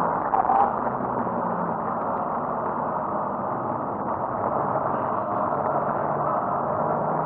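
BMW 335i's turbocharged 3.0-litre straight-six heard from inside the cabin, running at fairly steady revs under part throttle, with a constant wash of road and tyre noise.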